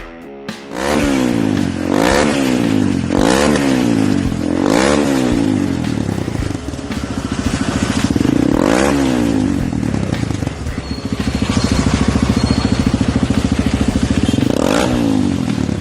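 Honda CRF150L's single-cylinder four-stroke engine breathing through a Norifumi Rocket 4 carbon aftermarket exhaust, idling and blipped about five times, each rev rising and falling quickly, the longest rev about halfway through.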